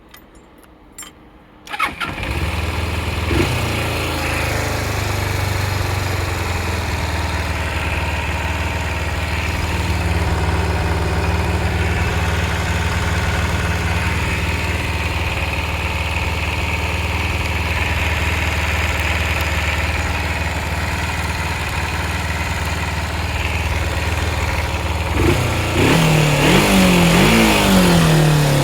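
Kawasaki Eliminator 250SE motorcycle's parallel-twin engine started after a few faint clicks: it catches about two seconds in, then idles steadily. Near the end the throttle is blipped several times, the engine note rising and falling with each rev.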